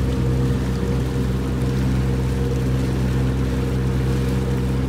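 Motorboat's outboard engine running steadily at low throttle, an even hum with a wash of water and wind noise over it.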